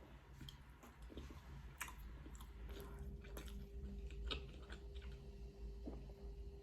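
Close-miked chewing and biting of food, with irregular small crunches and moist clicks of the mouth. A faint steady hum comes in a little under halfway through.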